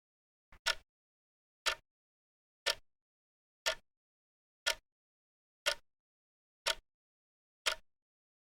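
Clock ticking steadily, one sharp tick each second with dead silence between.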